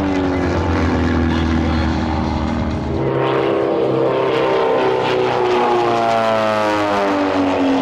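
Propeller engines of a pair of Van's RV-8 aerobatic planes flying past in formation. Their pitch falls as they go by, shifts about three seconds in, and climbs again near the end.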